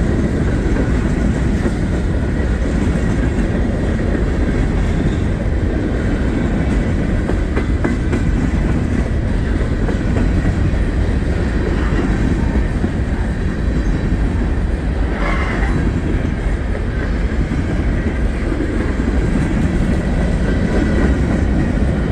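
Norfolk Southern freight train's cars rolling past: a steady, loud rumble of steel wheels on the rails that does not let up.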